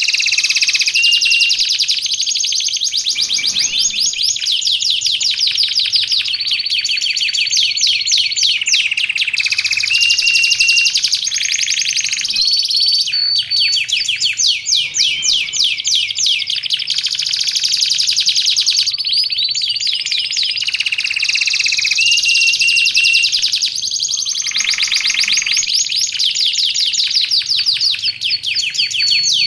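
Domestic canary singing a long, continuous song of rapid rolling trills between clear held whistled notes, with no pauses.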